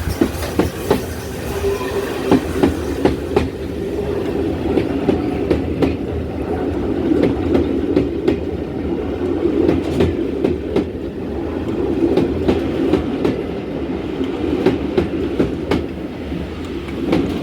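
Steam-hauled passenger train rolling past, its coach wheels clicking irregularly over the rail joints with a steady rumble.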